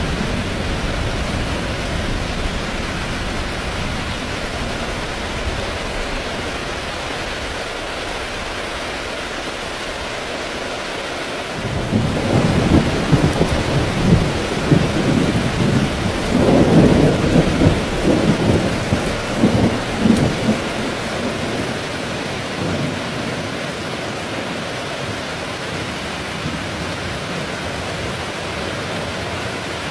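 Heavy rain falling steadily, with a long roll of thunder starting about twelve seconds in that rumbles for several seconds, loudest in the middle, and then fades back into the rain.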